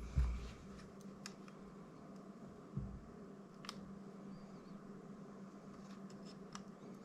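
Small tools and plastic drone parts handled on a workbench: a soft knock near the start and another about three seconds in, with a few scattered light clicks, over a steady low hum.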